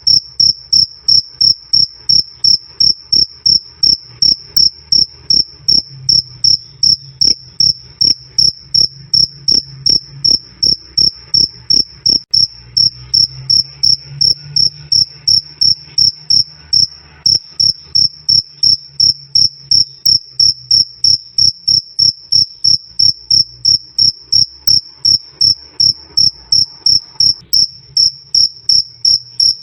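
A male field cricket chirping, a loud, clear 'krik' repeated evenly at about two and a half chirps a second on one high pitch.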